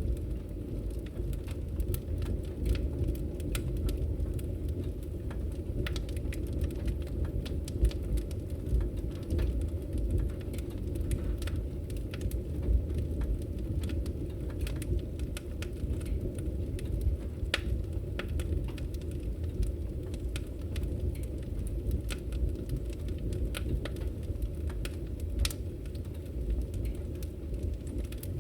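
Wood fire burning in a fireplace: a steady low rush of flames with frequent irregular crackles and pops from the burning firewood, one louder pop about eight seconds in.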